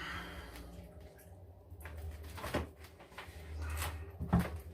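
A couple of light knocks and faint handling noise as shaving gear is put down and picked up, over a low steady hum.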